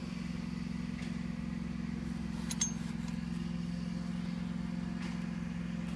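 A steady low machine hum, with one light metallic clink about two and a half seconds in.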